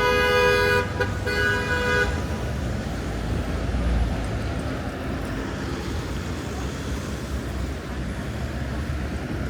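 A vehicle horn honks twice in quick succession, each honk under a second long, over the steady rumble of passing road traffic.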